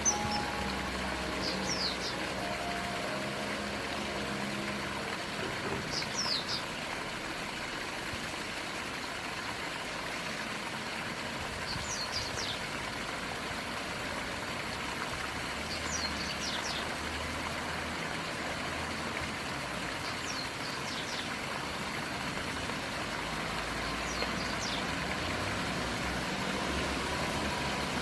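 Common kingfisher calling: short, high, piercing notes in little groups of two or three, repeated about every four seconds. Beneath the calls is a steady rushing background of traffic or running water.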